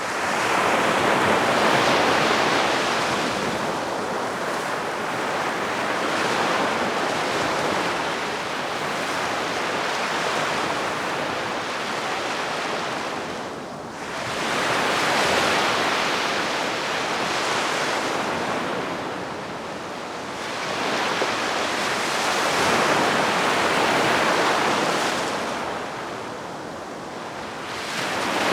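Gentle waves washing onto a sandy beach, a steady hiss of surf that swells and eases with each wave every several seconds.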